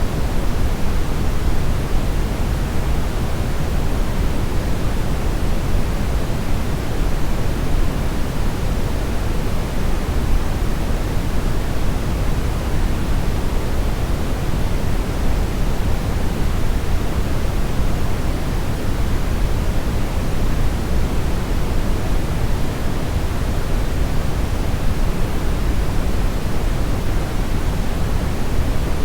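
Steady brownish noise: an even, unchanging hiss weighted toward the low end, deep and rumbling with little treble.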